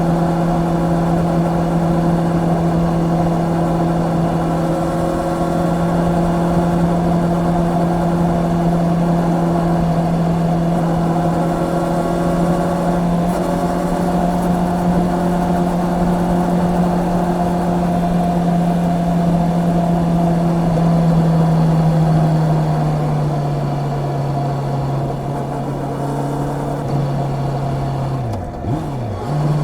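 Honda CB650R's inline-four engine pulling at steady revs while riding. Its note eases lower about two-thirds of the way through, then dips sharply and recovers near the end, over a steady rush of wind and road noise.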